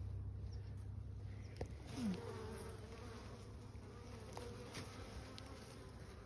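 Honeybees buzzing around an open hive, a steady hum with individual bees' wavering buzz passing near, and a few faint clicks.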